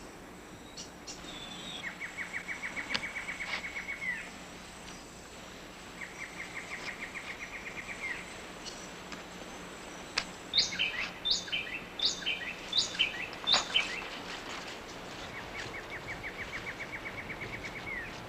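Rainforest ambience with bird calls. A rapid, even trill repeats three times, each ending in a short downward slur. In the middle comes a louder run of sharp, falling call notes, over a steady hiss of forest background.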